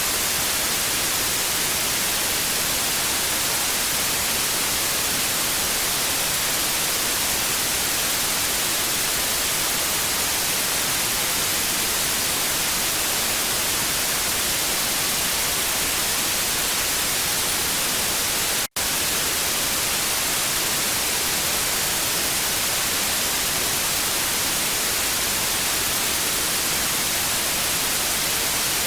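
Analog TV static: a steady, even hiss that is brightest in the highs. It drops out for an instant about two-thirds of the way through.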